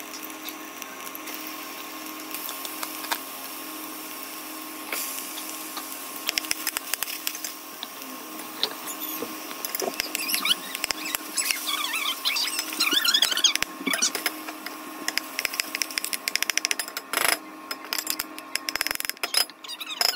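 Chopped peppers and onion sizzling in oil in a stainless steel pot. From about a third of the way in the sizzle turns into dense crackling and popping as raw ground meat goes into the hot pot, with a few high squeaks near the middle.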